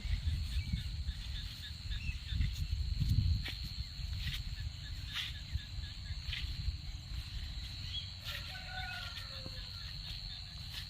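Steady high-pitched trill of crickets in a rain-soaked paddy field, over a low rumble on the microphone that is strongest in the first few seconds, with scattered light clicks and a few brief chirps near the end.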